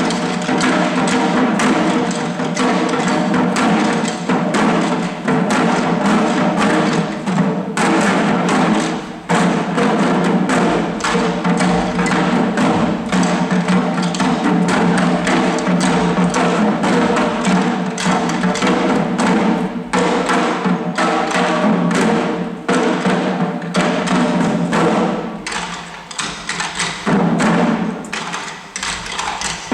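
Shishi odori deer-dance drums beaten in a quick, steady rhythm, with a sustained chanted song carried over them. The song thins briefly about three-quarters of the way through while the drumming goes on.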